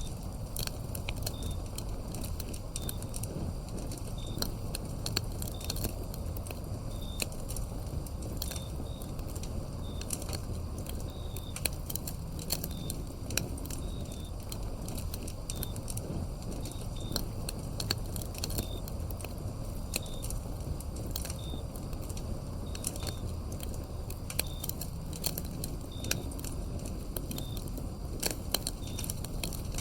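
Wood fire burning with constant crackling and frequent sharp pops, a low rushing rumble under it. Crickets chirp faintly in short, high calls a second or so apart.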